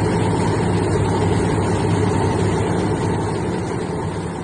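Ural 6x6 truck driving, its engine running steadily under road noise, fading out toward the end.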